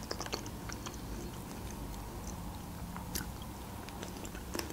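Close-miked mouth sounds of a person chewing a spoonful of strawberry dessert, faint and wet, with a few soft clicks.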